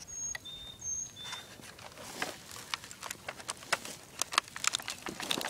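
Shattered laptop plastic clicking and crackling in irregular bursts as it is handled. A bird chirps twice near the start, each chirp a high note followed by a lower one.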